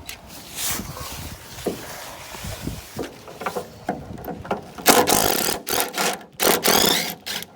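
Metal parts being handled on a pickup truck: scattered clanks and knocks, then two louder stretches of scraping and rattling about five and six and a half seconds in, the second ending in a brief squeak.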